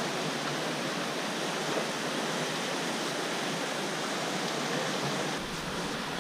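Steady rushing of flowing river water. Near the end the sound shifts a little and a low rumble comes in.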